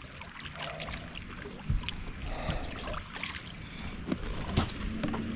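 Knocks and clatter of gear being handled in a small fishing boat, with a few dull thumps on the hull, while a fish is being landed. A faint steady hum comes in near the end.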